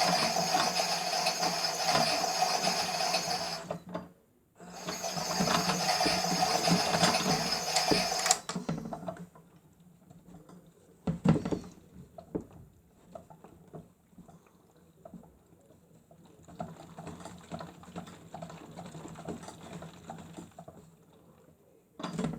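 Toy washing machine running a wash cycle: its small motor turns the drum with a steady whine, pausing briefly about four seconds in and stopping at about eight seconds. After that come quieter irregular clicks and water movement in the drum, with one sharper knock a few seconds later.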